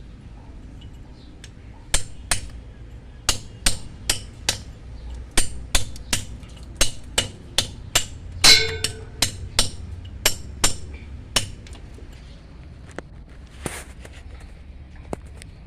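Hammer and chisel striking stone in a run of sharp taps, about two or three a second, while a stone water bowl is carved by hand. One strike about halfway through rings out longer. The tapping stops a few seconds before the end.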